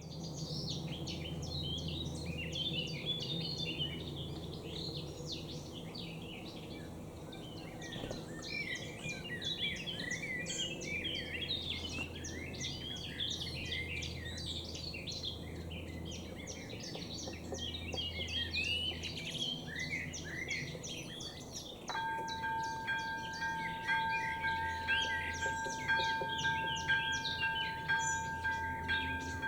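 Songbirds chirping and singing densely. About two-thirds of the way in, the level crossing's electronic warning bell (AŽD ZV02) switches on, a steady two-tone ringing that goes on to the end: the crossing has been triggered by an approaching train.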